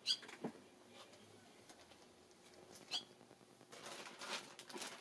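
Barn swallow giving two short, sharp high chirps, one at the start and one about three seconds in, then a rustle of fluttering wings near the end.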